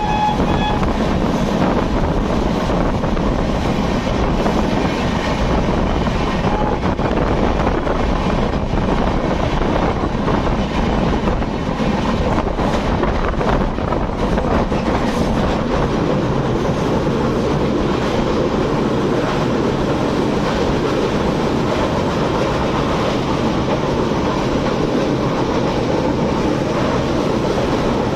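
A superfast express train passing close at high speed, a continuous loud rumble and clatter of wheels over rail joints. The last note of the electric locomotive's horn cuts off within the first second.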